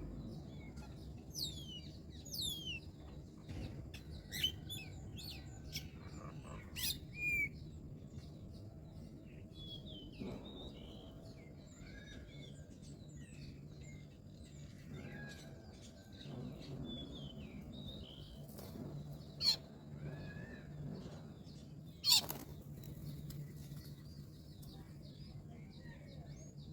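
Small birds chirping, with scattered short high calls and a few quick falling whistles. A sharp click sounds once, about three quarters of the way through, over a steady low hum.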